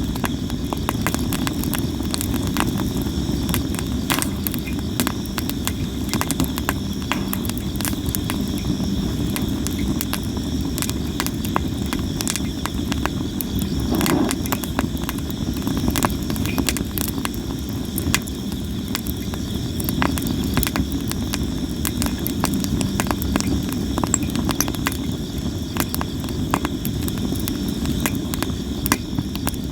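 Sawara (Japanese cypress) firewood burning, crackling and popping constantly in irregular sharp clicks over a low steady rumble of the fire, with insects trilling steadily in the background.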